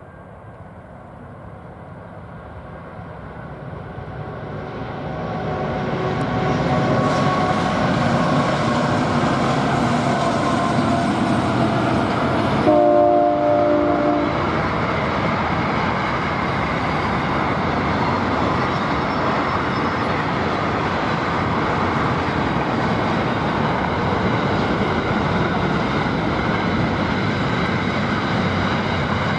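Diesel-hauled train approaching and growing louder over the first few seconds, a short horn blast about 13 seconds in, then the train running past with a steady rolling rumble.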